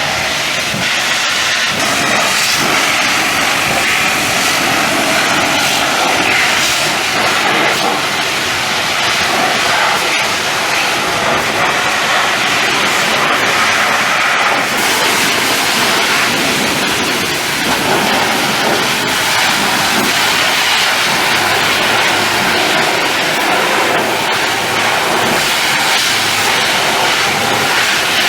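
High-pressure water jet spraying with a loud, steady hiss, its tone shifting slightly as the spray moves across the surface.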